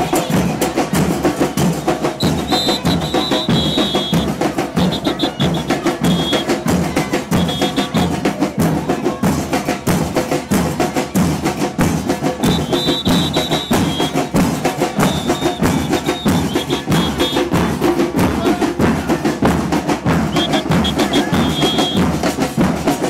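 Carnival percussion troupe playing drums in a fast, steady, driving rhythm. Short high whistle blasts cut in several times over the beat.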